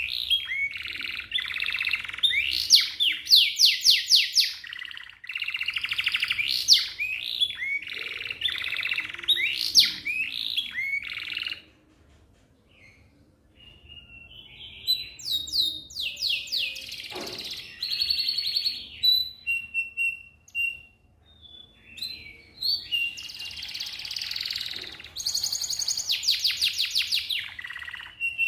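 Young domestic canary singing a long song of fast rolled trills and rapid repeated sweeping notes, with a pause of a couple of seconds near the middle before it picks up again.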